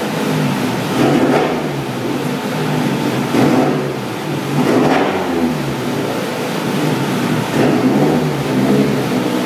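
Nissan 180SX drift car's four-cylinder engine running on a chassis dyno, its revs rising and falling in several loud bursts.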